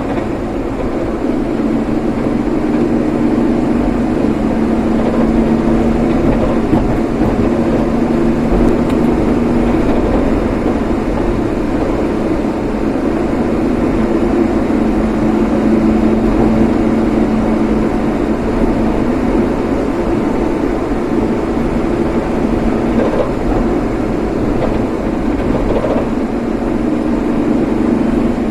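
A road vehicle driving: a steady drone of engine and road noise with a constant low hum.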